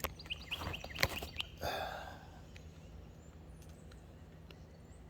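A small bird chirping in a quick series of short high notes for the first second and a half, with a sharp click about a second in and a brief rustle just after; then only a low steady outdoor background.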